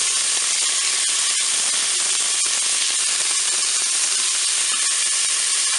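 Sliced onion and shallot sizzling steadily in hot olive oil in the bowl of a Cookeo multicooker on its browning setting, stirred with a wooden spoon.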